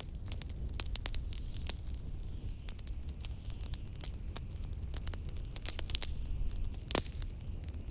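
Wood fire crackling, with many irregular sharp pops and one louder pop about seven seconds in, over a steady low rumble of blizzard wind.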